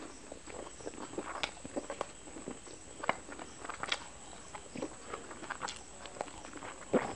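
Close-miked chewing of a bite of Kolkata-style egg roll: irregular short mouth clicks and smacks, with a louder one near the end.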